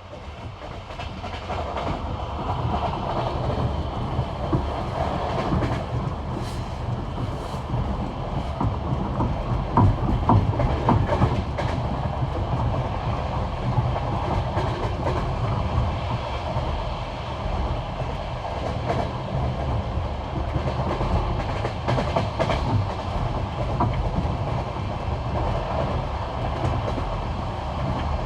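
Train wheels clattering over the rail joints of jointed track at speed: the classic rhythmic clickety-clack in groups of knocks over a steady rolling rumble. The sound fades in over the first two seconds.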